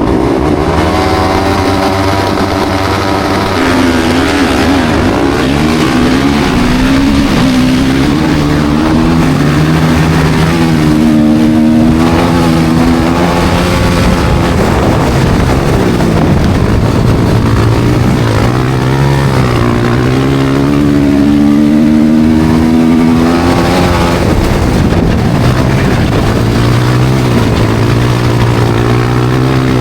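Studded-tyre race motorcycle engines running hard, their pitch repeatedly climbing and dropping as the riders rev up, shift and back off, with more than one engine heard at once.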